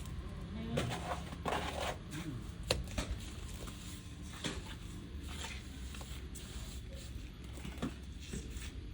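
Trowel scraping and tapping as cement plaster is worked onto a wall: irregular clicks and knocks, with a longer scrape about a second and a half in, over a low steady hum.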